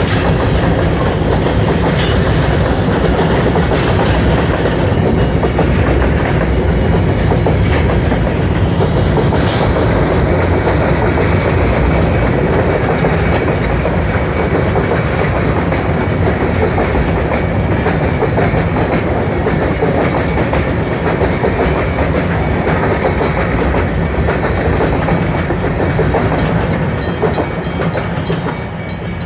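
Freight train rolling past, its steel wheels clattering over the rail joints in a steady rumble with occasional sharp clicks. The sound fades near the end.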